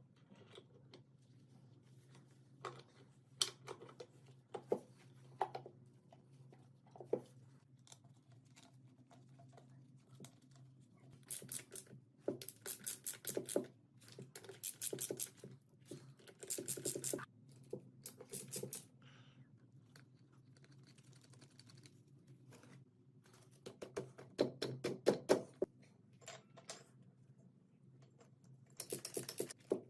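Bursts of rapid, evenly repeated scraping strokes, each a second or two long, with scattered clicks between them, over a faint steady low hum.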